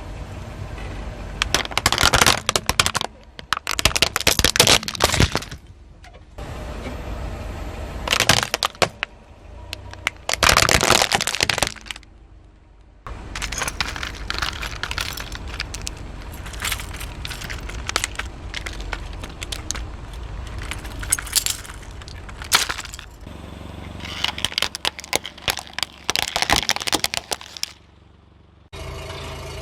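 Crunching and cracking of things being crushed under a car tyre, in a series of dense crackling bursts. The bursts are separated by quieter stretches, with abrupt cuts between clips.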